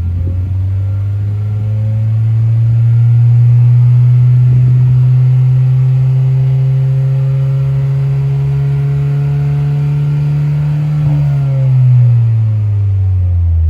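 Honda Civic FL1's turbocharged four-cylinder running through a COLBASSO GT-FOUR quad-tip aftermarket exhaust, the exhaust note held at a steady pitch as at constant revs. Near the end the pitch falls as the revs drop.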